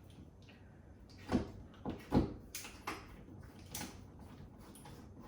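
Five or six separate knocks and clicks from hard objects being handled, the loudest about two seconds in.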